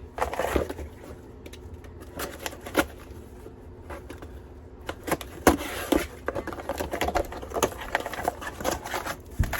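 A business-card mailer package being handled and unwrapped: crinkling and rustling of packaging with irregular clicks and taps, a cluster of sharper ticks about halfway through.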